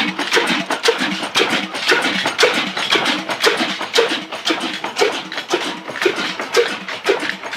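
Ruston stationary diesel engine running steadily, with a regular heavy beat about twice a second over a dense clatter of clicks from its valve gear.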